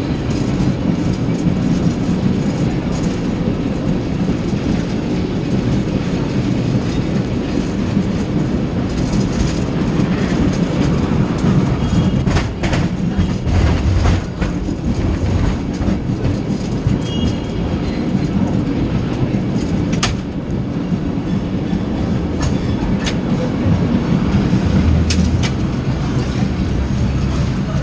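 San Francisco tram running along its rails, heard from on board: a steady low rumble and rattle, with a few sharp clacks along the way.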